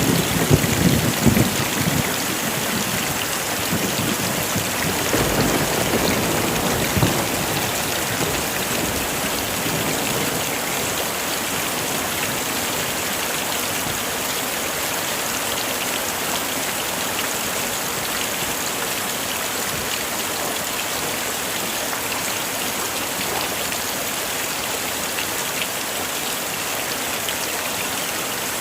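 Heavy rain falling steadily, with low rolls of thunder in the first couple of seconds and again around five to seven seconds in.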